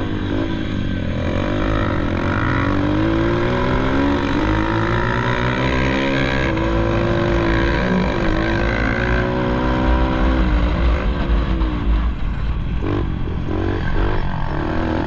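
Pit bike engine being ridden hard, its pitch rising and falling over and over as the rider revs and shifts, over a heavy low rumble.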